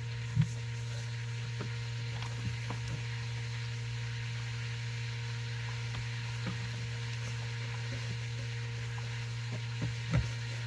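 Steady low hum with a few soft clicks and knocks from hands working the curtain fittings, one just under half a second in and another near the end.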